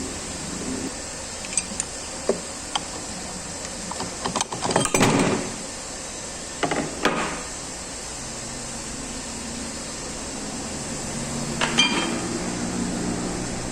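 Tools and metal parts being handled on a bench: a few light clicks, then two rattling clatters and a ringing clank near the end, over a steady mechanical hum.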